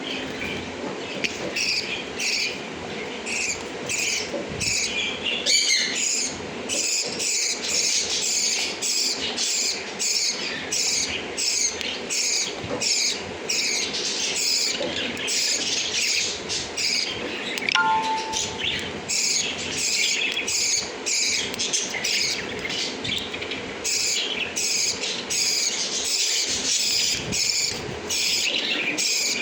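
Flock of lovebirds chattering, a dense run of rapid high chirps that keeps up without pause.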